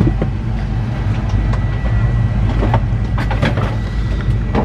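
Steady low hum of an airliner cabin at the gate, from the Airbus A380's air conditioning and ground power, with a thin steady high whine and scattered light clicks and knocks.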